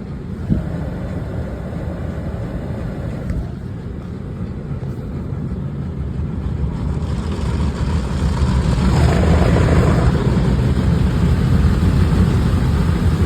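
Automatic car wash heard from inside a car: a steady low rumble that grows louder about seven seconds in, with a hissing rush of spray around nine seconds.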